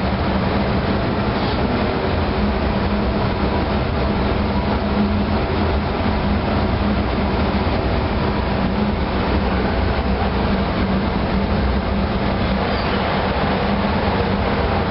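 MaK 8M32 eight-cylinder four-stroke marine diesel main engine running steadily after being sped up, a loud even drone with a steady hum, filling the engine room.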